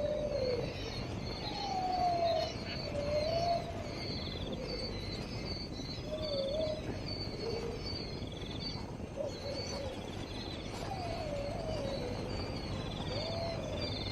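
A repeated wavering, whistle-like animal call, each one a short rising-and-falling glide, comes every second or two. Behind it is a steady chorus of high insect chirps and short trills.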